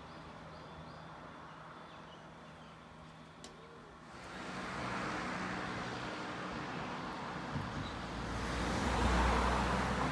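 A motor vehicle going by: faint engine hum at first, then a rushing noise that grows from about four seconds in and is loudest, with a low rumble, near the end.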